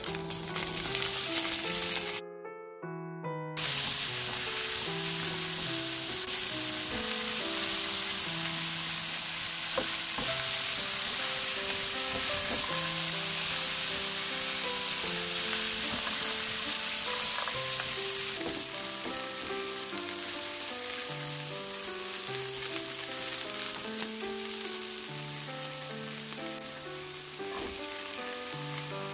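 Shredded fried chicken and chopped kimchi sizzling in a hot nonstick pan, stirred with a silicone spatula. The sizzle cuts out for about a second near the start, then runs steadily.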